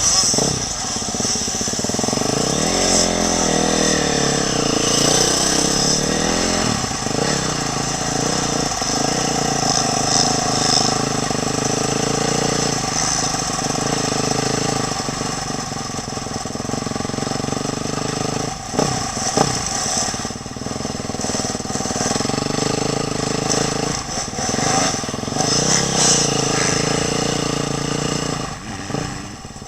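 Motocross bike engine running hard, its revs rising and falling as the throttle opens and closes, with brief drops in engine note about two-thirds of the way in and near the end. Recorded from a camera mounted on the rider's helmet.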